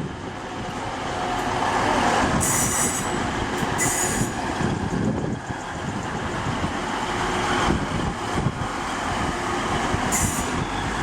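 Diesel multiple unit running through the station, a steady rumble that builds over the first couple of seconds, with short high-pitched wheel squeals about two and a half seconds in, again at four seconds and near the end.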